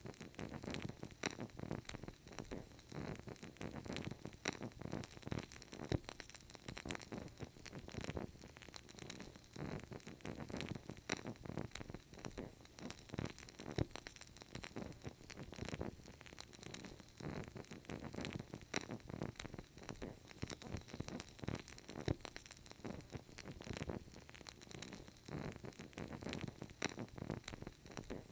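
Burning candle crackling: irregular small pops and clicks over a faint steady hiss.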